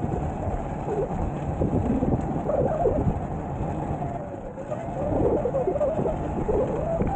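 Sur-Ron electric dirt bike riding along, its motor whine wavering up and down as the throttle changes, over a steady rumble of wind and tyre noise.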